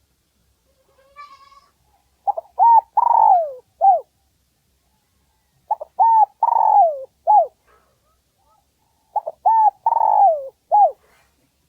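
Spotted dove (Streptopelia chinensis) cooing: three similar phrases a few seconds apart. Each phrase is a few short coos, then a longer falling coo, then a short closing coo. This is the dove's song, used as a decoy call to lure wild spotted doves.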